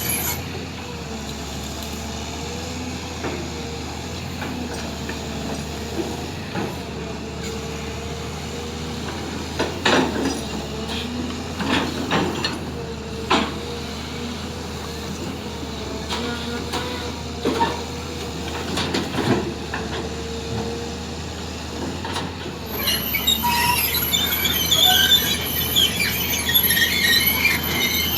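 Heavy machinery running steadily, with several sharp metallic clanks partway through. Near the end a loud, high metal-on-metal squealing sets in and carries on, typical of the steel tracks and undercarriage of an amphibious excavator moving over a trailer deck.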